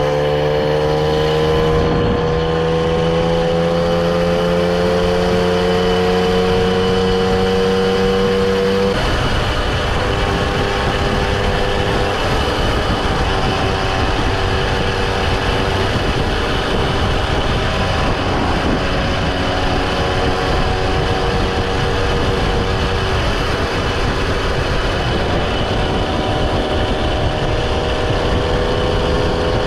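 Vintage moped engine running on the move, its pitch climbing slowly over the first several seconds. About nine seconds in the sound changes abruptly, and the engine then runs steadier under a rushing noise.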